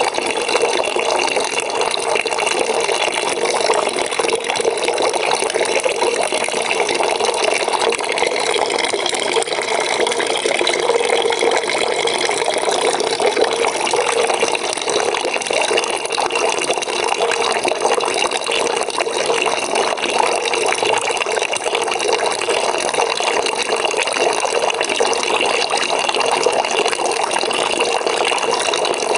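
Water running steadily into a bucket, filling it.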